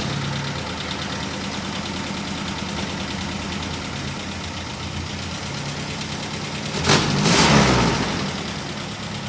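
1962 Jeep M170's four-cylinder F-head engine running steadily, with a louder surge about seven seconds in.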